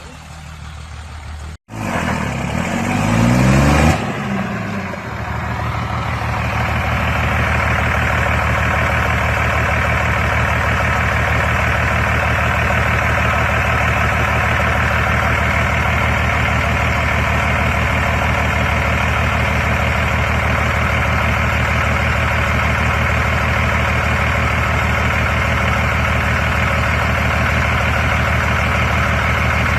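Diesel truck engine revving up briefly with its pitch rising, then running loud and steady at a constant speed.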